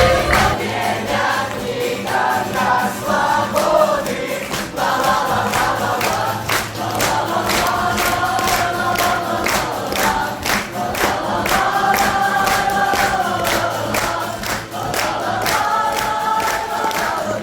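A group of young performers singing together over musical accompaniment with a steady percussive beat.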